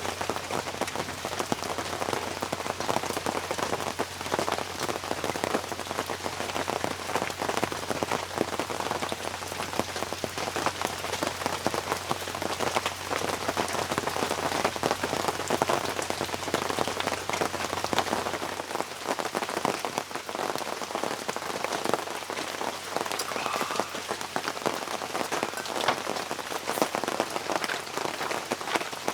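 Steady rain falling on a surface, the hits of many single drops heard as dense fine ticks. A faint low hum underneath stops about two-thirds of the way through.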